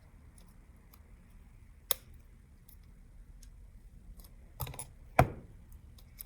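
Sharp clicks and taps of the Galaxy S9 Plus's small internal parts, its plastic back plates and wireless charging assembly, being pried loose with a spudger and handled. There is one click about two seconds in, a quick cluster near five seconds, and the loudest tap just after.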